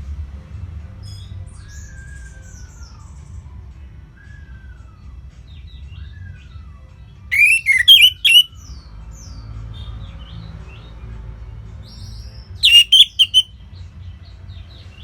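Songbirds singing: fainter chirps and slow falling whistles, with two loud bursts of rapid, warbling phrases about seven and twelve seconds in, over a low steady background rumble.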